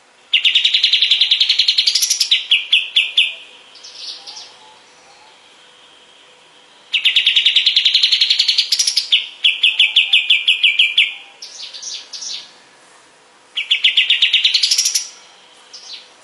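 A kapas tembak bird singing three song bouts. Each bout is a fast, rapid trill of repeated notes that rises in pitch near its end, then breaks into slower notes and a few short higher notes.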